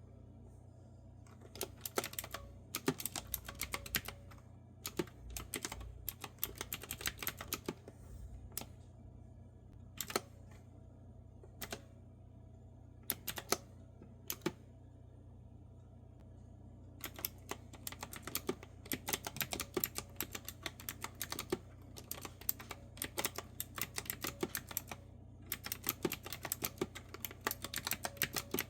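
Clicky keystrokes on a retro-style keyboard with round typewriter-style keycaps. Quick runs of typing give way to a sparse stretch of single key presses and a pause of about two seconds in the middle, then steady typing resumes through the second half. A faint low hum runs underneath.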